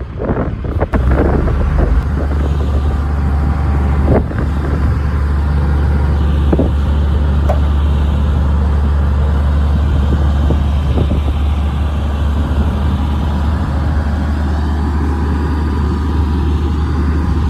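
Heavy earthmoving machine's diesel engine running steadily under load, a loud deep drone that steps up about a second in. A few metallic clanks in the first seconds and once more a few seconds later.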